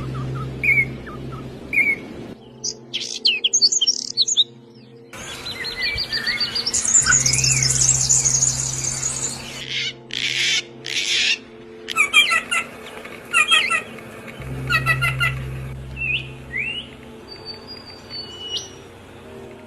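Several different songbirds chirping and trilling in short high calls and rapid runs of notes. The scene changes abruptly every few seconds. A low steady drone runs underneath at times.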